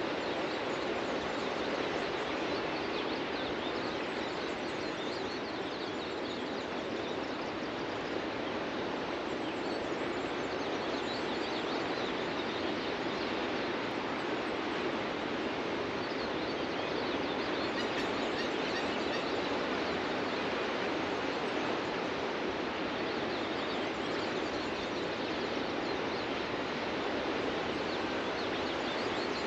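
Ocean surf breaking and washing on a beach as a steady, continuous rush, with a few faint bird chirps over it.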